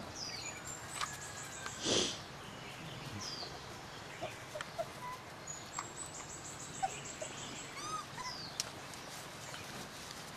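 Wild birds calling: a short down-slurred whistle repeated a few times and quick runs of high chirps. A short noisy burst about two seconds in is the loudest sound.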